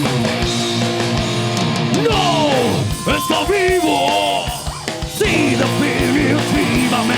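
Heavy metal band playing: drums keeping an even beat under distorted electric guitars and bass, with sliding, wailing pitches in the middle of the passage.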